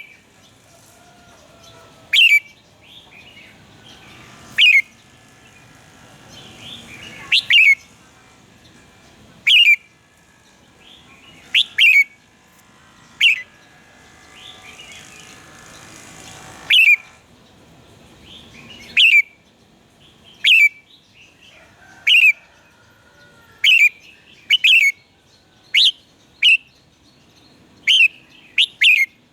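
Red-whiskered bulbul singing short, loud, sharp phrases that drop in pitch, one every couple of seconds, coming quicker and closer together near the end.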